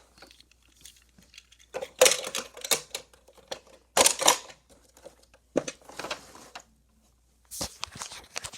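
Die-cast toy cars clattering and rattling along a plastic Hot Wheels playset, in four separate bursts of clicks and rattles with short pauses between them.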